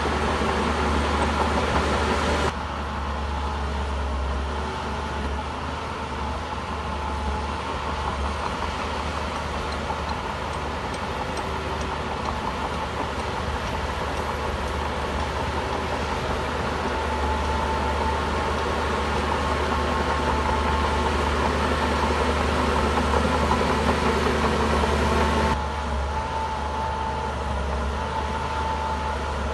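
Bulldozer's diesel engine running steadily with a deep hum; the sound changes abruptly about two and a half seconds in and again near the end.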